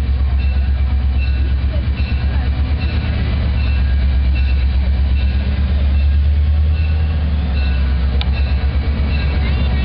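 Diesel locomotive engine running close by: a loud, deep, steady throb with a pulsing beat.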